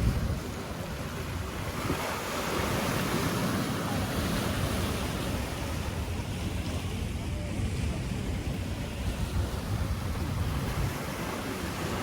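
Ocean surf washing in, with wind gusting on the microphone; the surf swells up about two seconds in.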